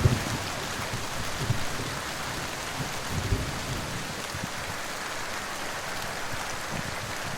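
Steady rain hissing, with a couple of short low thumps about one and a half and three seconds in.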